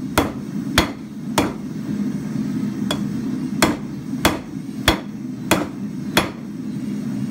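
Hand hammer striking a red-hot square steel bar on an anvil, drawing out a taper on its end. There are about nine sharp blows, roughly one every 0.6 seconds, with a short pause about two seconds in. A steady low rumble runs underneath.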